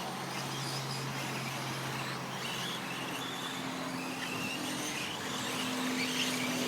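Radio-controlled 4wd short course trucks racing on the track, their electric motors giving short high whines over a steady hum and wash of noise.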